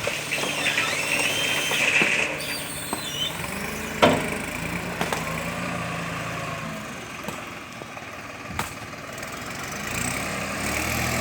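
New Holland 5510 tractor's diesel engine running, its pitch rising and falling in places as it works, with a sharp knock about four seconds in and another later on.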